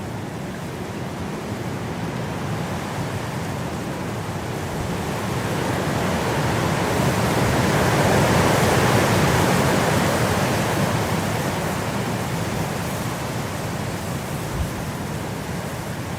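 Wind blowing in a steady rush that swells into a stronger gust about halfway through, then eases off again.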